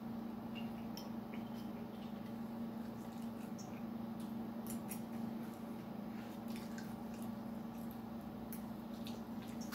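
Steady low hum with faint wet chewing and mouth sounds from someone eating a soft cinnamon roll, and scattered light clicks of a fork.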